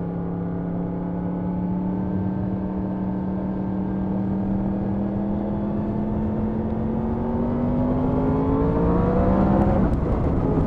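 Yamaha MT-10 SP's crossplane inline-four engine pulling under steady acceleration, its pitch rising slowly and growing louder, then dropping suddenly near the end as it shifts up a gear, with road and wind noise underneath.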